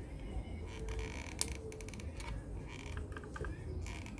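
Scattered light clicks and creaks of a hot glue gun and plastic speaker parts being handled while glue is applied, over a low steady hum.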